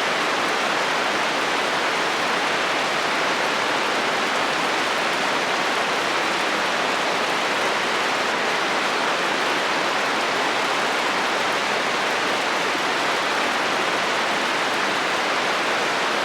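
Heavy rain falling steadily on a metal roof, a dense, even patter that does not change.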